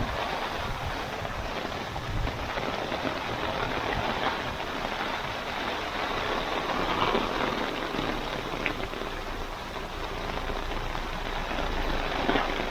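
Torrential rain falling heavily and steadily, likely drumming on an umbrella close to the microphone, with rushing floodwater underneath.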